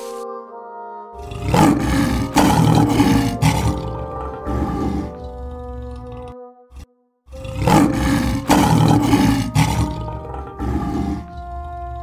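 Lion roaring in two long bouts of about five seconds each, with a short break between them, over background music.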